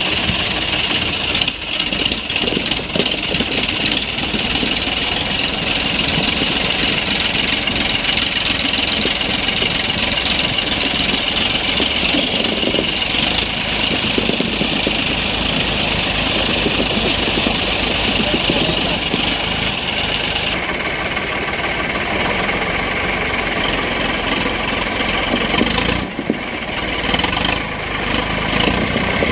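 Diesel tractor engines running steadily as two tractors pull against each other in a tug of war. The sound changes abruptly about twenty seconds in and dips briefly a few seconds later.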